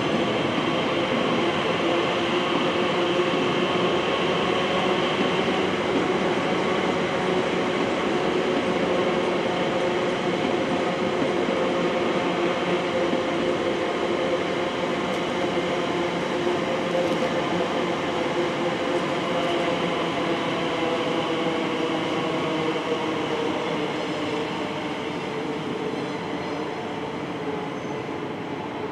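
Elizabeth line Class 345 electric train passing at speed: steady rail and wheel running noise with a few hum tones slowly falling in pitch, fading over the last few seconds.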